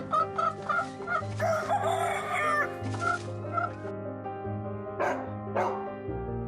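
Rooster clucking in short repeated notes, then crowing once, a little over a second long, then clucking again. Two short sharp calls of another animal come near the end, all over soft background music.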